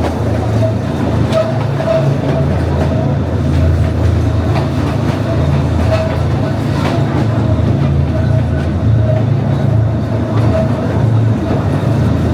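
Metre-gauge train running on the track: a steady low rumble with a faint pulsing higher tone and scattered light clicks.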